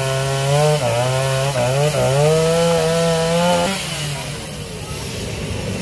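Two-stroke chainsaw cutting a fallen tree, its engine pitch rising and falling as it bites into the wood, then easing back to a lower, quieter run about four seconds in.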